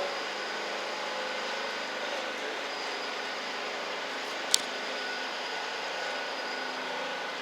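Steady engine hum and city noise, with faint steady tones running through it, and one sharp click about four and a half seconds in.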